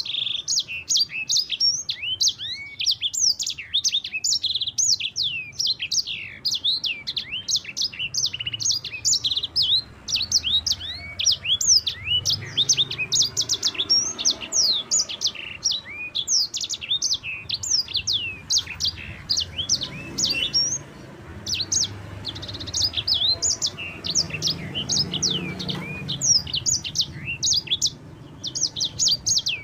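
Sanger songbird singing a long, clear rolling song without pause: a fast, continuous stream of sharp high chirps and quick down-sliding notes, several each second.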